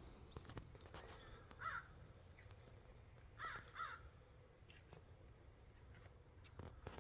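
Near silence with three faint bird calls, about two seconds in and twice close together around three and a half seconds in.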